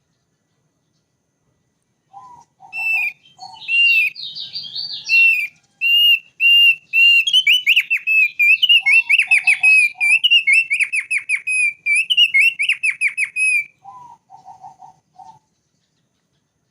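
Thick-billed white-eye singing a long, fast run of high whistled notes and trills, starting about two seconds in and stopping near the end. Short groups of lower notes break in at the start, the middle and the end of the song.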